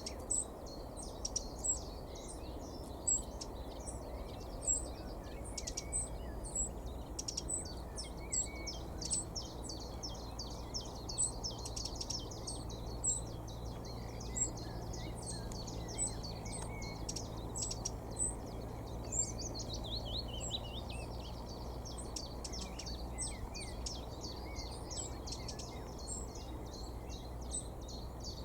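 A wren, the parent of a nearby fledgling, calling over and over with rapid high chirps while trying to locate the young bird, with a descending run of notes a little after two-thirds of the way through. A steady low hum of background noise sits underneath.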